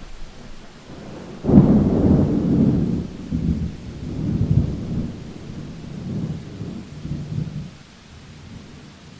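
A thunderclap breaks suddenly about a second and a half in and rolls on in several low rumbling swells, fading out after about six seconds, over a light steady rain.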